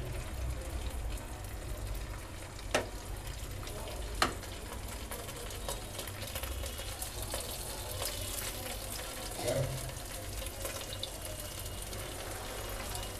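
Paneer cubes sizzling steadily in hot oil in a nonstick frying pan. Two sharp taps about three and four seconds in, and a short louder clatter near the ten-second mark, come as more pieces are set into the pan.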